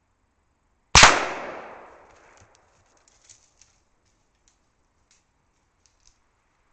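A single deer-hunting gunshot: a sharp crack about a second in that rolls away over roughly a second, followed by a few faint ticks.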